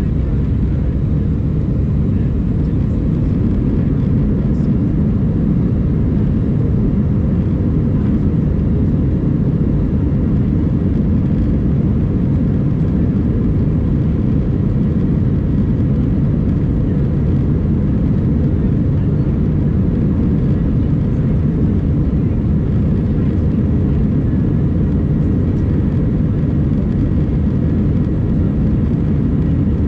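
Steady, loud cabin noise of an Airbus A319 airliner: the rumble of the jet engines and airflow heard inside the passenger cabin.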